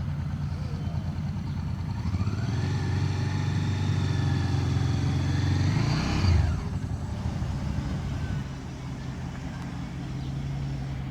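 A motor vehicle engine running over a steady low idle. About two seconds in, its pitch rises as it speeds up, growing louder, then drops away sharply a little past the middle of the clip, leaving a lower steady engine hum.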